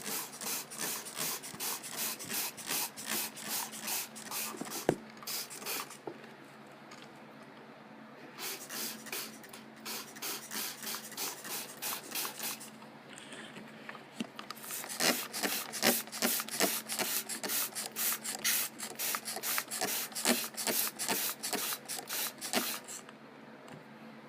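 Soft cloth brushes of a Ryko Soft Gloss automatic car wash rubbing and slapping across the car in a fast, even rhythm of about two to three strokes a second. The strokes pause briefly twice, with a steady machine hum underneath.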